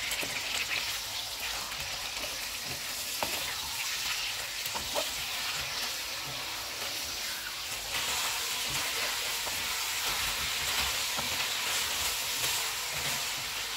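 Raw chicken pieces frying in hot oil with onions in a wok on high flame: a steady sizzle, with a wooden spatula stirring and knocking against the pan. The sizzle grows a little louder about eight seconds in.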